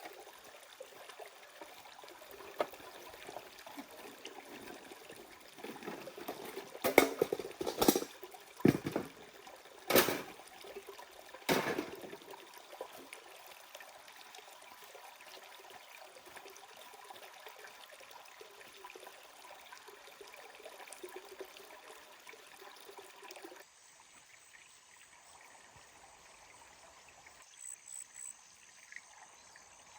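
Steady flowing water, with a cluster of loud sharp knocks about seven to twelve seconds in. The water drops away suddenly about three-quarters of the way through, leaving a quieter background.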